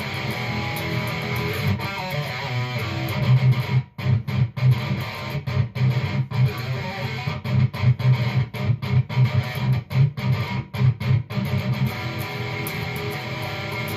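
Fender Stratocaster electric guitar being played. Sustained strummed chords give way, about four seconds in, to a run of short, choppy stop-start strokes with brief silences between them, before sustained playing returns near the end.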